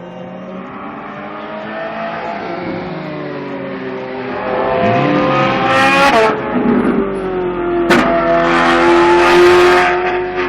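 Ferrari 458's V8 engine accelerating hard, its pitch and loudness climbing through the revs with a brief dip, as at a gear change. A sharp crack comes about eight seconds in, and the engine sound stays loud before falling away near the end.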